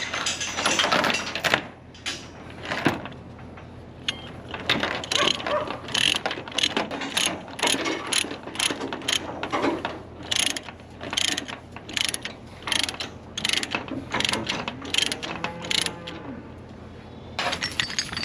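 A ratchet cranked in repeated strokes, clicking in quick clusters, as when tightening a load tie-down.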